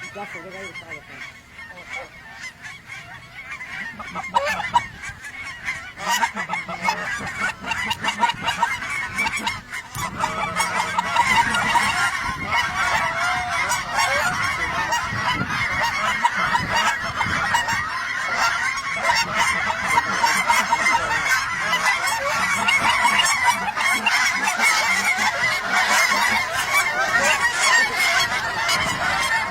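A large flock of geese honking, many calls overlapping into a continuous clamour that grows louder and denser about ten seconds in as the flock comes closer.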